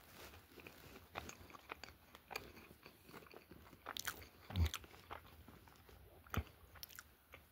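Close-up chewing and mouth noises of someone eating chicken pizza, faint and irregular, with scattered clicks and smacks. A dull thump about halfway through and a sharp click a couple of seconds later are the loudest sounds.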